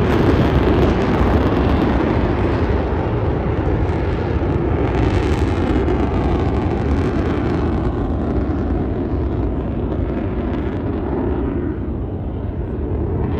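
F/A-18 Super Hornet jet engines passing in flight: a loud, deep, steady rumble whose higher part thins out over the last few seconds as the jets move away.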